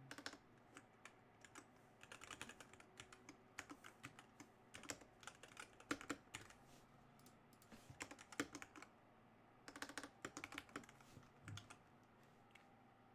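Computer keyboard typing in bursts of quick keystrokes, with short pauses between the bursts.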